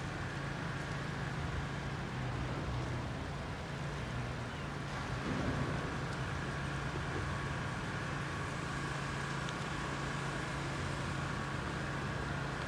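Steady low drone of a train engine on the railroad, holding one pitch, over the even rush of the shallow creek's water; it swells slightly about five seconds in.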